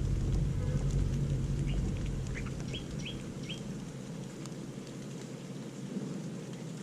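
A handful of short, high bird chirps in quick succession, over a low rumble that dies away about halfway through.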